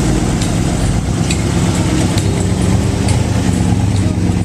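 A vehicle engine idling steadily close by, a low pulsing rumble, with a few faint light ticks over it.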